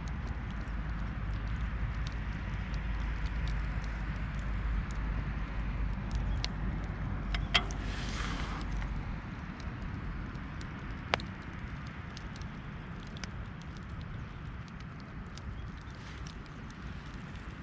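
Scattered sharp crackles and pops over a steady hiss, with a low rumble underneath that drops away about seven seconds in; a brief whoosh comes near the middle.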